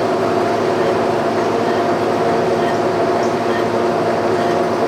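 Boring machine driving a long boring bar through a steel suspension-frame pivot hole on a rough boring pass: a steady mechanical hum with several held tones over cutting noise.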